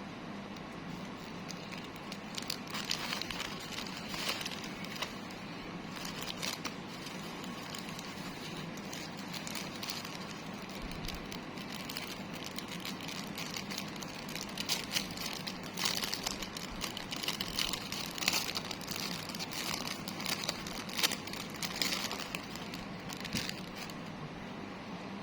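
Plastic packaging crinkling and rustling as it is handled and opened, in irregular bursts with quieter handling between.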